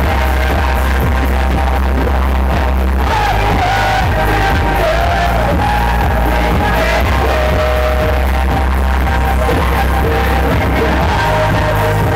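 Live electronic rock band with vocals, recorded from the crowd on a phone: loud, distorted bass with singing over it.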